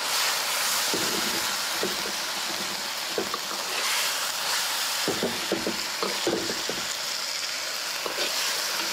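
Three-cup tofu sizzling in a wok as it is stirred, with scattered short knocks and scrapes of the spatula over a steady hiss. The sauce has just been thickened with cornstarch slurry.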